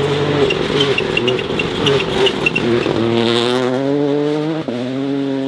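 Rally car engine running hard at high revs on a gravel forest stage, with a single sharp crack a little over four seconds in.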